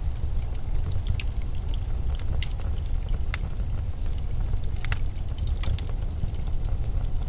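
Winter wind blowing as a steady low rumble, with scattered sharp crackles and ticks throughout.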